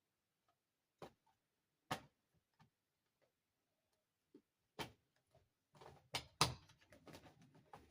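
Plastic dollhouse parts being handled: scattered sharp clicks and taps, growing busier near the end with two louder clicks and light rustling.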